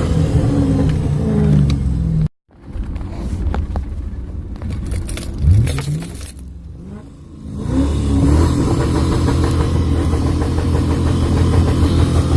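V8 engine being revved hard through its exhaust: held at high revs with the pitch falling back, then after a sudden break a couple of quick rising blips, and it climbs to a steady high rev held for several seconds.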